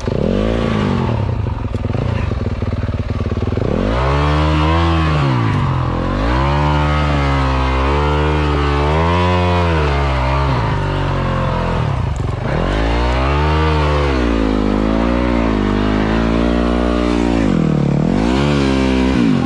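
Dirt bike engine being ridden hard, its pitch rising and falling over and over as the throttle is worked and gears change, with a brief drop in revs about midway.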